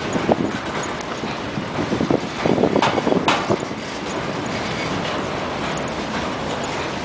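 Freight train boxcars rolling past close by, their steel wheels clattering over the rail joints with a continuous rumble. A cluster of clacks with two sharp knocks comes around three seconds in, then it settles into a steadier roll.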